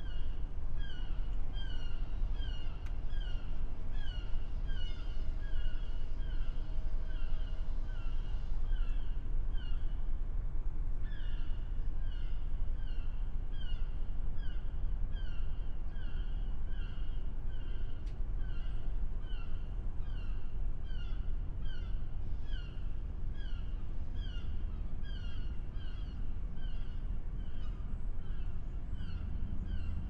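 A bird calling over and over, about two short falling calls a second with a brief pause partway through, above a steady low rumble of harbor ambience that grows stronger near the end.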